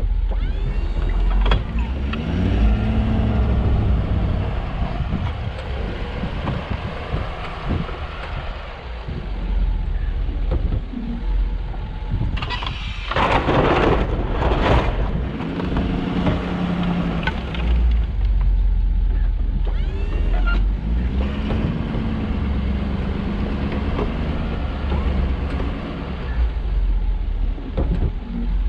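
Snowplow truck engine running and revving up and down as it plows, with a loud rushing, scraping stretch about halfway through.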